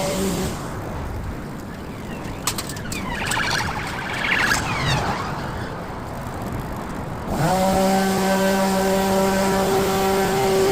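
A powered hedge trimmer's motor running at a steady pitch. It cuts out about half a second in and starts up again suddenly about seven seconds in. In the quieter gap there are a few clicks and brief high gliding sounds.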